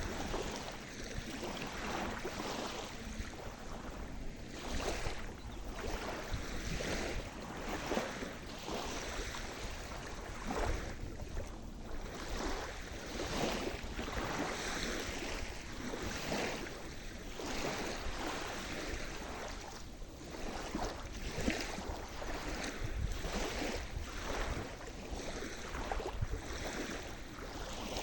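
Sea surf washing on the shore: a continuous rush of water with frequent irregular splashes, swelling and easing every second or two.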